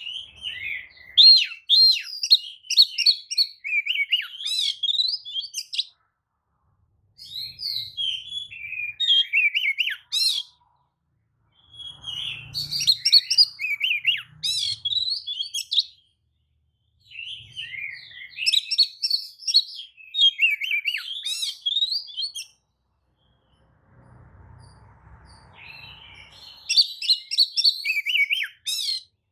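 Oriental magpie-robin singing a fast, varied song of chirps and whistles, in phrases of a few seconds broken by short pauses.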